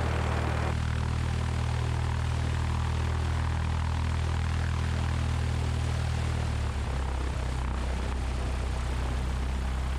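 1969 Cessna 172's four-cylinder Lycoming O-320 engine idling steadily on the ground. Its note shifts slightly about two-thirds of the way through.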